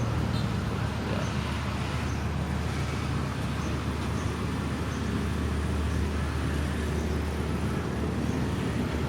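Steady low rumble of a passenger train running, with an even hiss of noise over it.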